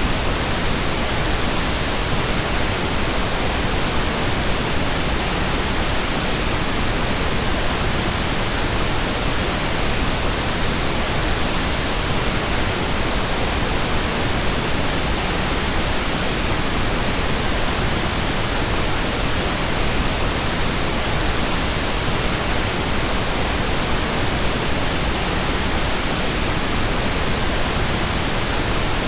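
Pink noise: a steady, even hiss spread across all frequencies.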